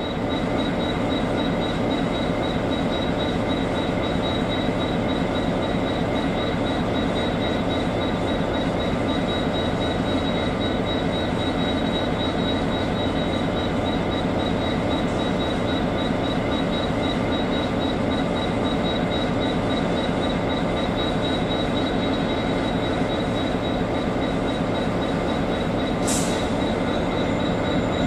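Irish Rail Enterprise passenger train with a 201 Class diesel locomotive running slowly over pointwork: a steady rumble with a high steady whine, and one short sharp squeal about two seconds before the end.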